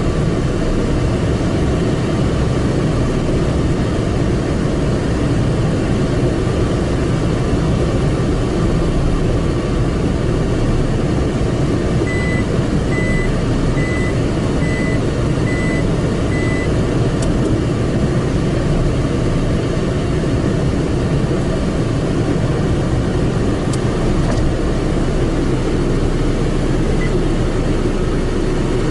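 Steady low rumbling noise of a car and car-wash machinery heard from inside the car, with a series of about six short high beeps a little before the middle.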